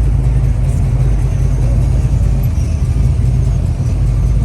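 A car engine running at low speed close by, a steady deep sound with no change in pitch.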